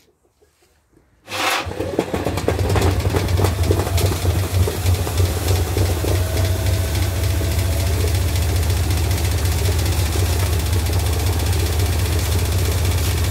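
Washing machine motor switching on about a second in and running steadily, a strong low hum under a rough, rattling noise.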